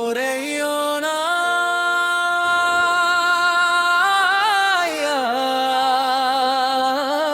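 A single voice singing long, drawn-out notes with wavering vibrato over soft background music, like a sad vocal lament in a film score.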